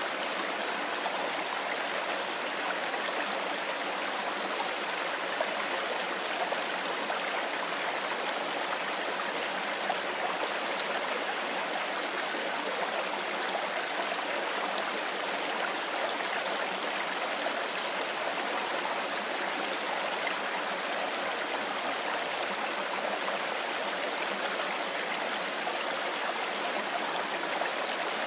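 Mountain river running over stones: a steady, even rush of flowing water with no breaks.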